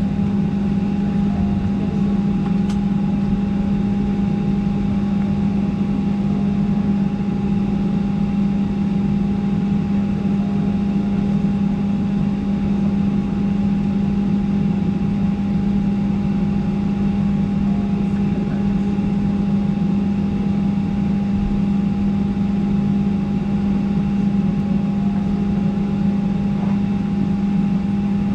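Steady cabin hum of a Boeing 737-800 parked at the gate before engine start: a constant low drone with a thin steady whine above it over an even rush of air, the sound of the aircraft's ventilation and air-conditioning running.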